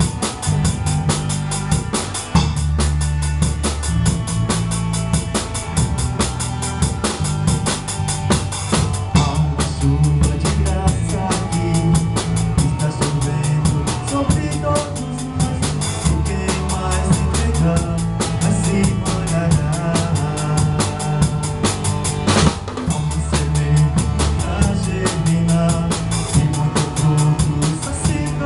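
A live band plays an instrumental passage of a worship song. A drum kit keeps a steady beat with kick and snare over held bass notes and sustained chords. One sharp crash comes about three-quarters of the way through.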